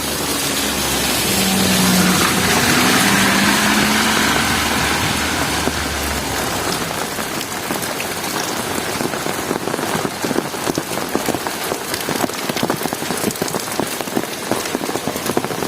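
Heavy rain falling steadily. In the first few seconds a motor vehicle passes, its engine hum swelling and then fading out about six seconds in. After that, close raindrops tick sharply over the steady rain.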